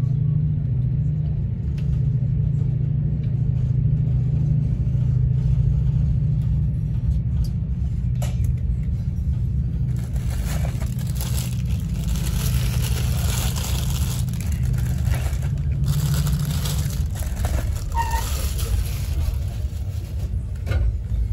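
A Class 68 diesel-hauled passenger train heard from inside a coach as it pulls slowly out of a station, with a steady low drone. From about ten seconds in, a hiss of wheels on rail rises over the drone as the train picks up speed.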